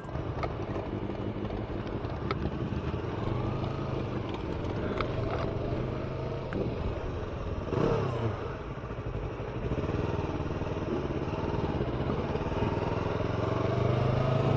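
Yamaha R3's parallel-twin engine running steadily while riding. About halfway through, a vehicle passes close with a brief swell and drop in pitch. Near the end the engine pitch climbs steadily as the bike accelerates.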